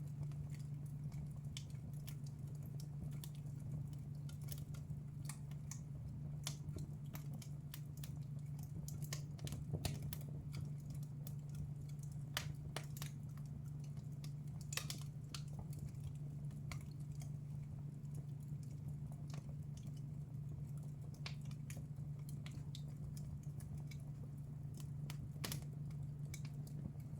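Wood fire in a fireplace crackling, with irregular small snaps and a few louder pops, over a steady low hum.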